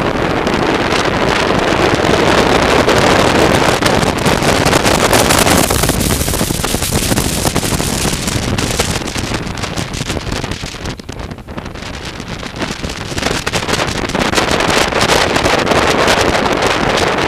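Wind buffeting the microphone of a moving motorcycle, over engine and road noise. It eases briefly about two thirds of the way through, then rises again.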